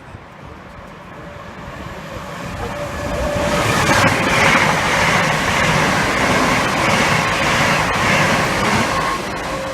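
A train moving along the station tracks, growing louder over the first few seconds, staying loud for several seconds, then easing a little near the end.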